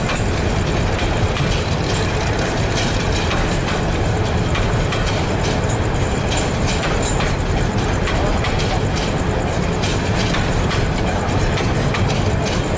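Container freight train's wagons rolling past at close range: a steady rumble of steel wheels on the rails, broken by frequent clicks and clacks as the wheels cross rail joints.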